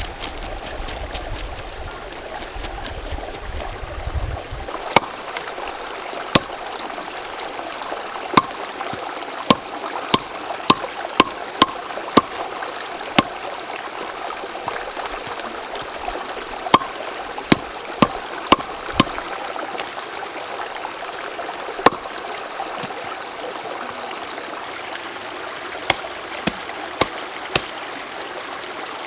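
Mountain stream flowing steadily, with wind rumbling on the microphone for the first few seconds. Sharp knocks come at irregular intervals, about a dozen between roughly five and nineteen seconds in and a few more near the end.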